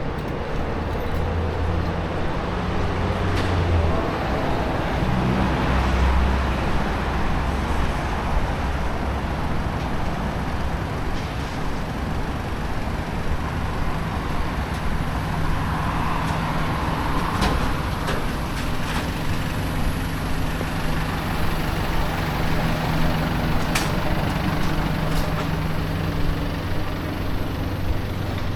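City road traffic: a heavy vehicle's engine runs steadily with a low hum over a constant hiss, with a few faint clicks in the second half.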